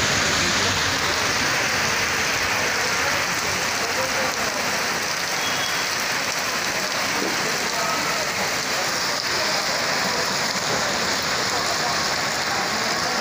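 Heavy rain pouring onto a flooded street, a steady, loud hiss of downpour.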